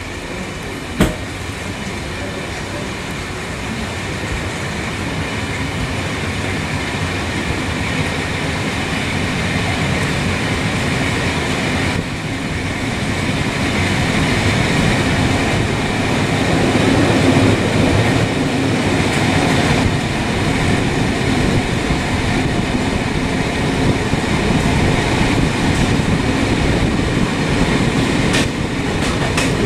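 Steady running noise of a moving vehicle, growing gradually louder, with one sharp click about a second in.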